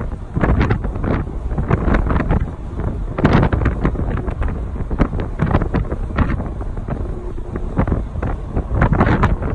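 Wind buffeting the microphone in irregular gusts over a steady low rumble, typical of filming from a moving car.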